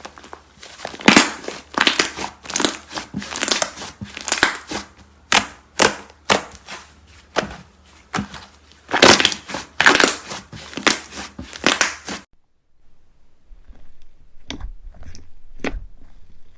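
Crunchy slime being squeezed and pressed, giving a dense run of crackling, crunching pops. About twelve seconds in it cuts to a quieter, sparser run of softer clicks.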